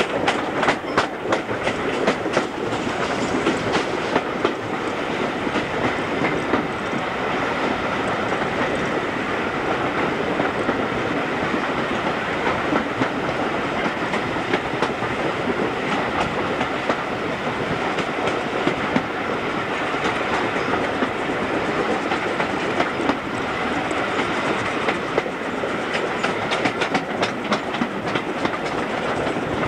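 A steam-hauled passenger train's carriage wheels running on the track, a steady running noise with clickety-clack over rail joints. Sharp clicks come in clusters in the first few seconds as the wheels cross points, and again near the end.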